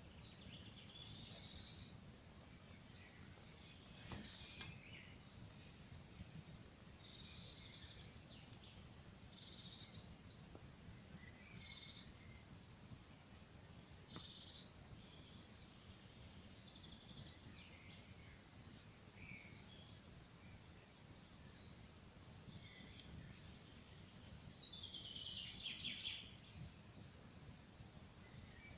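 Songbirds chirping in short high notes, one after another, over a faint low crackle of a campfire, with one sharp pop about four seconds in.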